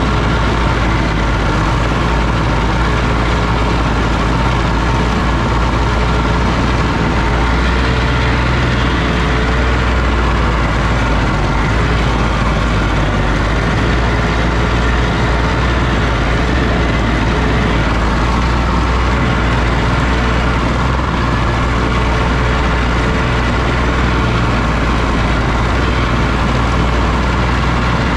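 Oliver OC-6 crawler tractor's engine running steadily, its pitch wavering slightly now and then.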